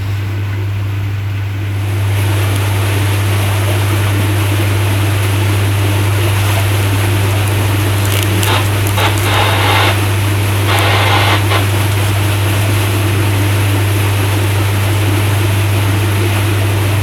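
Houseboat's motor running steadily under way, a constant low drone with water and wind noise over it that grows louder about two seconds in. Two brief louder rushes of noise come a little past the middle.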